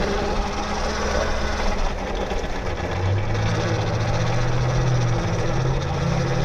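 Tuttio Soleil 01 electric dirt bike's motor and drivetrain whining steadily while riding, the hum stepping up slightly in pitch about halfway through.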